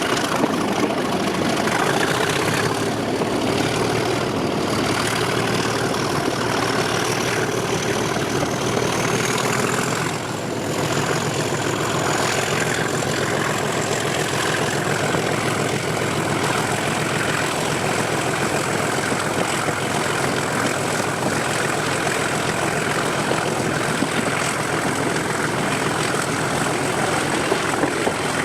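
English Electric 12CSVT diesel engine of a Class 37 locomotive working steadily under power, its turbocharger whistle rising in pitch over the first ten seconds or so and then holding a steady high note.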